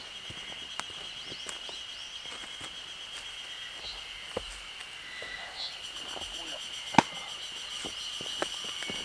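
Forest ambience: a steady high pulsing trill with a few bird chirps over it, and scattered light clicks and knocks, the loudest a sharp crack about seven seconds in.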